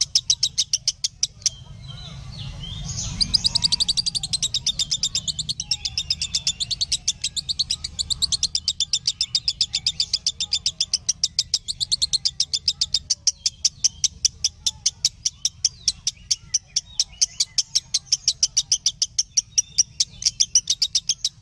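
Lovebird singing continuously: a long run of rapid, high, evenly spaced chirps, several a second. It breaks off briefly about two seconds in, then resumes.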